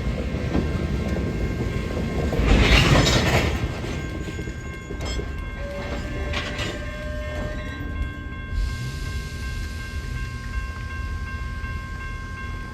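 Train running on the rails with a steady low rumble, swelling into a loud rushing surge about two and a half seconds in, then settling back.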